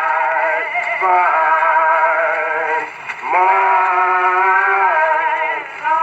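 Slow, drawn-out hymn singing by a church congregation from a 1920s 78rpm record, in the hymn-lining style. Long held notes come in two phrases, with a short break about three seconds in, and the sound is thin, with no high end.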